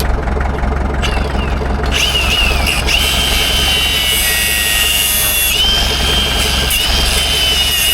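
Angle grinder starting up about a second in, then cutting metal: a steady high whine over a loud hiss. A low engine-like hum runs underneath.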